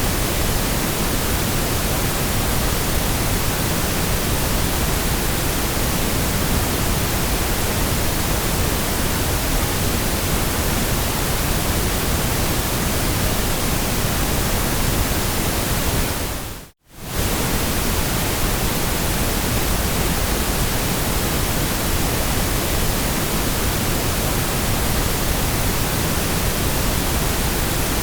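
Steady white noise, an even hiss across the whole range, leaning toward pink noise. About 17 seconds in it fades to near silence and comes straight back within a second, like a seam where the noise track loops.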